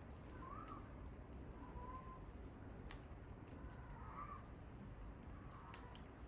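Small wood fire crackling quietly, with sparse sharp pops over a low steady rumble. Faint short bird calls come every second or two.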